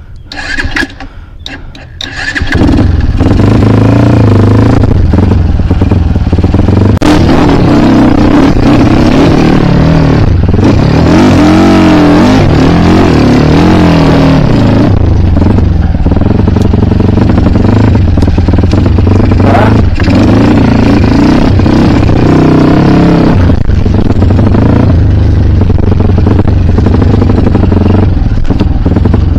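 Kawasaki KLX dirt bike engine starting after a few short knocks about two seconds in, then running loud with the revs rising and falling.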